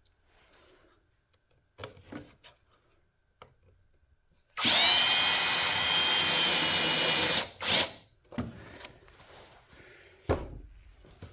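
A small handheld power tool's electric motor spins up with a quickly rising whine and runs steadily for about three seconds. It stops, then gives one brief second burst. A few light clicks of handling come before it.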